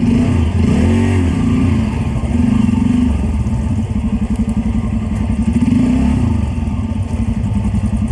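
Motorcycle engine running under way, its note rising and falling several times as the throttle opens and closes through gear changes.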